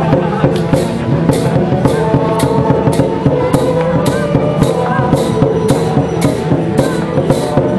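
Festival ritual percussion: metallic crashes about twice a second over dense drumming and steady ringing tones, in an even, driving rhythm.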